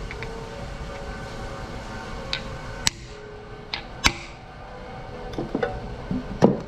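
Center punch marking the cast-iron engine block: several sharp metallic taps, spread unevenly over the seconds, over a steady background hum.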